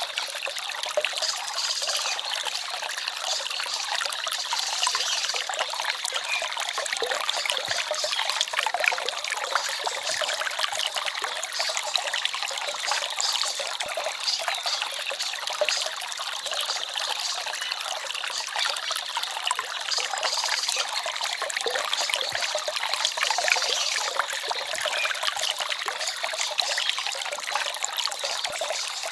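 Small forest stream trickling and babbling steadily, with many small splashes in an even rush of water.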